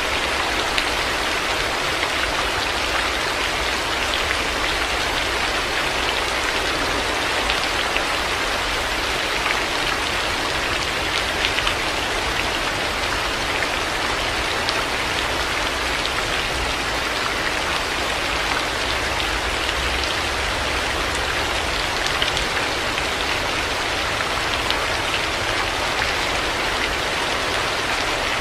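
Steady heavy rain: a dense, even hiss of falling water with scattered drop ticks over a steady low rumble.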